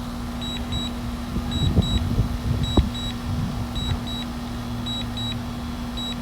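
Drone remote controller sounding a warning with return-to-home engaged: pairs of short high beeps repeating about once a second over a steady low hum. There are a few low thumps and a sharp click near the middle.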